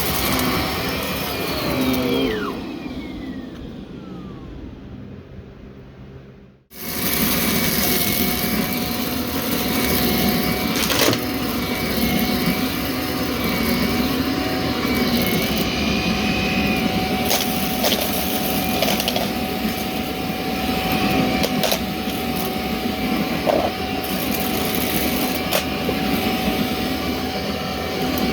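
Vacuum cleaner switched off about two seconds in, its motor spinning down with a falling whine to a moment of silence, then switched back on about seven seconds in and running steadily with a constant whine.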